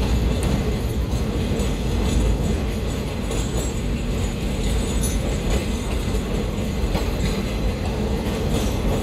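Passenger train rolling along the track, heard from aboard: a steady rumble of the wheels on the rails with faint scattered clicks.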